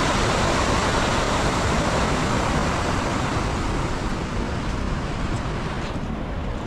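Heavy rain falling, a steady rushing hiss that eases off a little in the second half.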